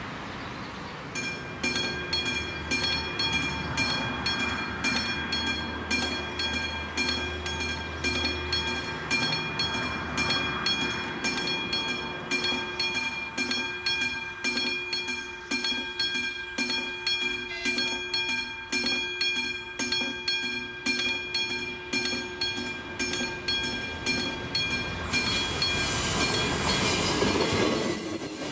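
Level crossing warning bell ringing steadily, about two strikes a second, then stopping about 25 seconds in. A train then approaches and grows louder, with high-pitched wheel squeal near the end.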